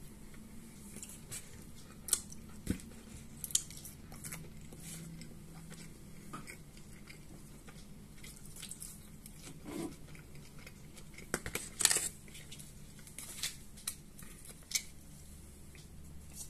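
Close-up chewing and biting of fried mini meat pastries, with soft crunches and a few sharp clicks of a metal fork against a plastic food tray.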